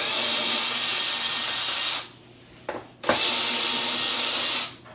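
Cordless drill/driver running in two spells of about two seconds each, a second apart, backing the screws out of an old cabinet door handle.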